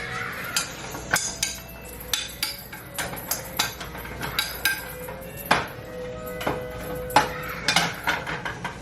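Dishes and cutlery clinking and knocking as they are unloaded from a dishwasher and put away: a string of sharp clatters, about two a second, some ringing briefly. The loudest come about five and a half and seven seconds in.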